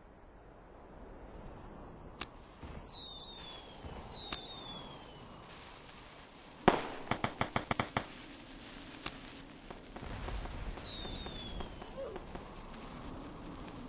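Fireworks going off: whistles falling in pitch and scattered pops, then a loud bang followed by a quick run of about seven cracks, like a string of firecrackers.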